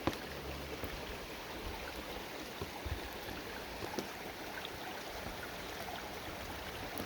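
Small mountain-stream waterfalls running steadily over rocks, with a few faint knocks.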